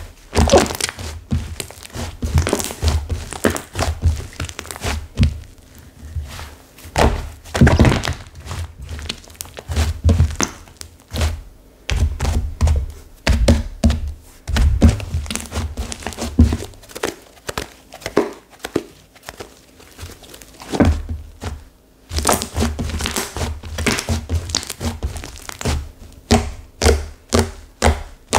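Hands squeezing and pressing a stiff clay slime whose clay has hardened. This makes irregular dull thuds mixed with many short clicks, with a brief pause about three quarters of the way through.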